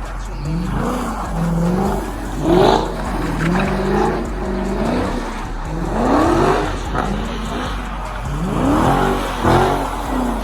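Dodge Challenger's engine revving hard again and again, its pitch climbing and falling back every second or two.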